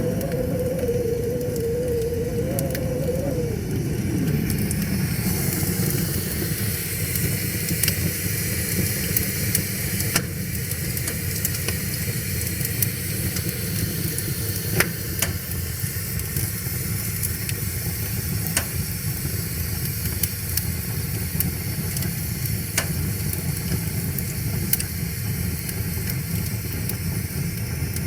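Campfire crackling with scattered sharp pops, over the steady low rush of a river. In the first few seconds a wavering hum slides down in pitch and fades out.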